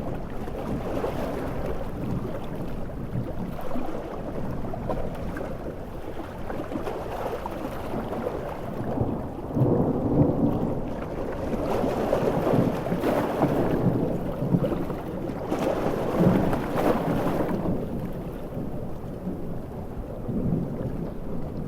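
Thunderstorm on a coast: heavy rain and surf under rumbling thunder. The thunder swells louder for several seconds in the middle, with a few sharper cracks, then eases back.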